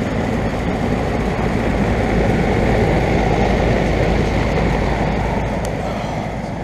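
A 4-ton residential central air conditioner condensing unit running: its fan and compressor give a steady, even whoosh over a low hum.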